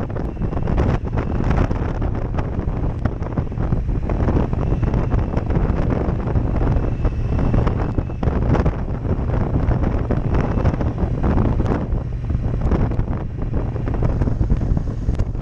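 Heavy wind buffeting on a helmet-mounted action-camera microphone during a motorcycle ride, a dense rushing rumble that gusts up and down and mostly buries the bike's engine.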